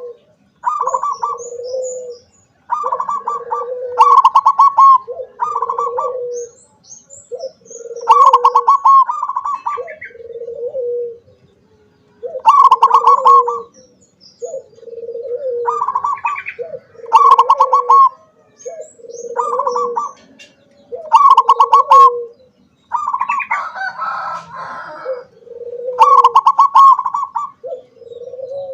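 Zebra dove (perkutut) cooing over and over: loud rolling coos, each a higher note dropping to a lower one, repeated every second or two.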